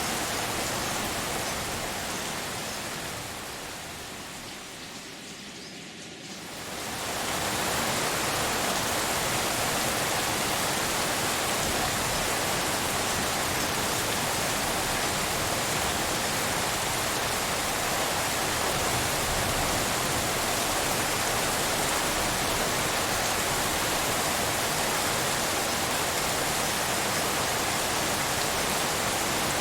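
Steady, even hiss of rain mixed as pink noise. It fades quieter a couple of seconds in and swells back to full level at about seven seconds.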